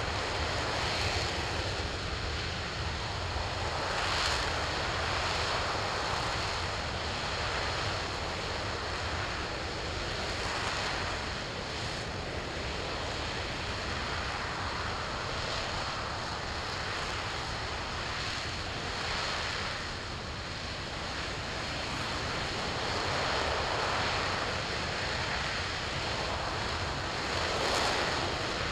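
RS-25 liquid-hydrogen/liquid-oxygen rocket engine firing on a test stand: a continuous loud roar that swells and eases every few seconds.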